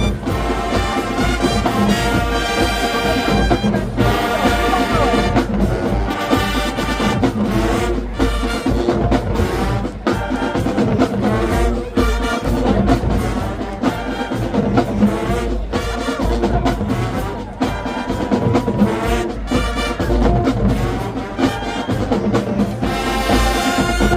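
High school marching band playing, with brass (trumpets and trombones) carrying the music over percussion.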